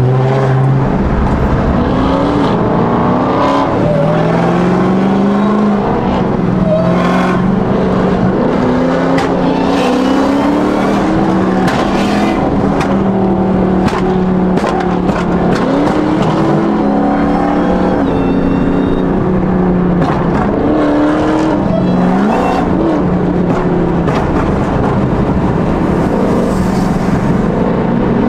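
Car engines revving again and again, pitch climbing and dropping over a steady low running note, with sharp cracks scattered through.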